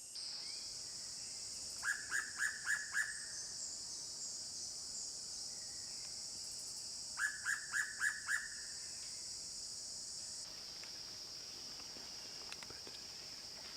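A bird calls two phrases of five short, quick notes, about five seconds apart, over a steady high-pitched insect drone.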